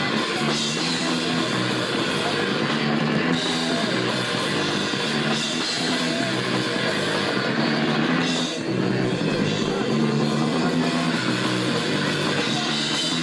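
A rock band playing live, with electric guitar and a drum kit, loud and without a break.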